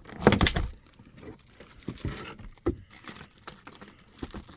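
Handling noises from unpacking a boxed model airplane: a brief cluster of knocks and rustles about half a second in, then scattered light clicks and taps.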